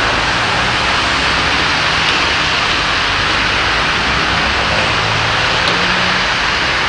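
Heavy rain pouring down in a steady, loud hiss, with a vehicle's engine hum faintly under it.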